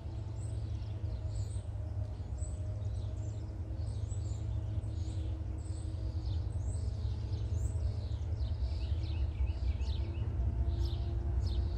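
Small birds chirping over a steady low rumble that grows slowly louder. The chirps come thicker in the second half.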